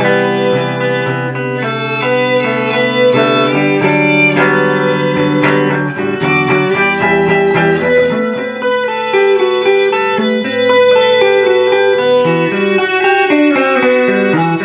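Live instrumental passage of a band: guitar playing with violin, many pitched notes changing throughout.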